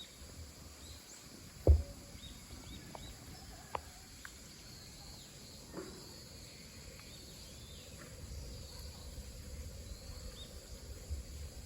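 Outdoor pond-side ambience with a low rumble and a few faint, short, high bird chirps. A single sharp knock comes about two seconds in.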